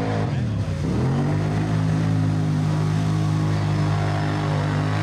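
ATV engine revving hard: its pitch drops and climbs back in the first second, then holds steady at high revs.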